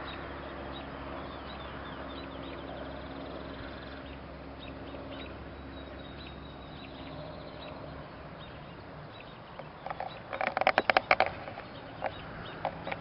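Wild birds chirping over a steady low hum, with a loud, fast run of short calls about ten seconds in and a few single calls near the end.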